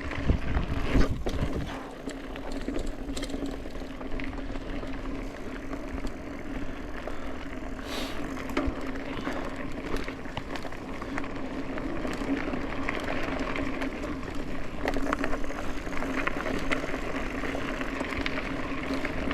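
Mountain bike being ridden on a trail: tyres rolling with rattles and knocks from the bike, a steady hum throughout, and a few heavier thumps in the first couple of seconds.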